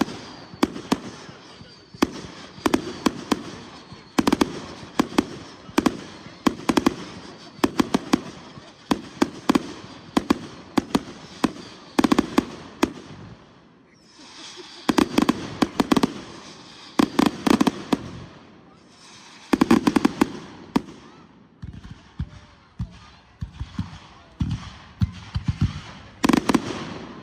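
Consumer fireworks going off in rapid volleys of sharp bangs and crackles, with brief lulls about halfway through and again a little later.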